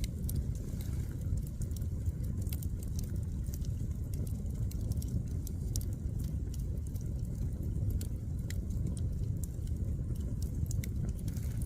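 Firewood burning, crackling and popping in frequent sharp snaps over a steady low rumble.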